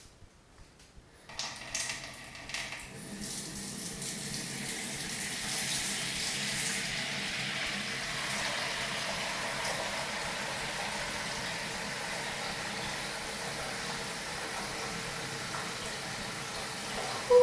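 A water tap is turned on about a second in. The water splashes unevenly for a couple of seconds, then runs steadily.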